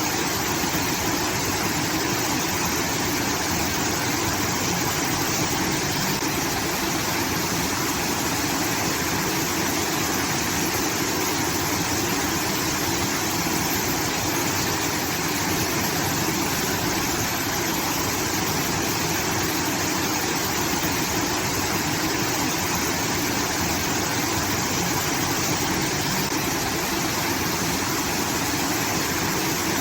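Water from a rice-field irrigation outlet pouring and splashing steadily, with an even rushing sound like a small waterfall.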